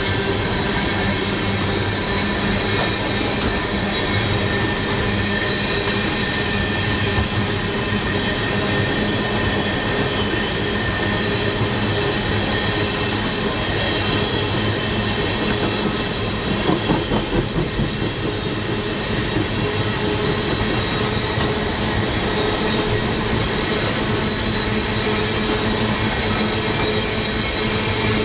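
BNSF freight train rolling past close by, steel wheels running on the rails with steady high ringing tones. A brief run of clacks about 17 seconds in.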